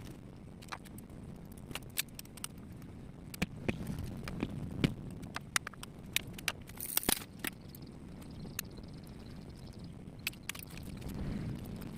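Irregular sharp clicks and light knocks, like small hard objects being handled, with a short hiss about seven seconds in.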